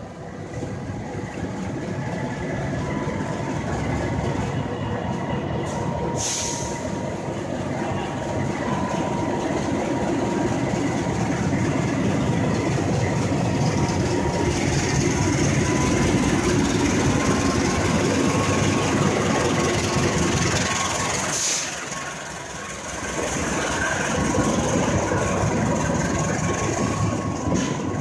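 CC206 diesel-electric locomotive pulling a passenger train close past the platform: its engine runs under a steady rumble of wheels on the rails. The noise drops briefly about three-quarters of the way through, then another passing train carries on.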